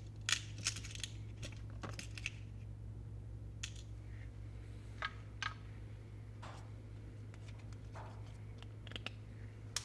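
Scattered light clicks and taps of small parts being handled and fitted by hand on a workbench, irregular and a few seconds apart, over a steady low hum.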